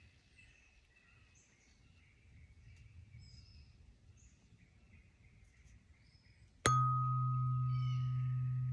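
Solar plexus chakra tuning fork struck about two-thirds of the way in, with a sharp click. It then rings with a strong steady low hum and a higher overtone that fades within a few seconds. Small birds chirp faintly before and through it.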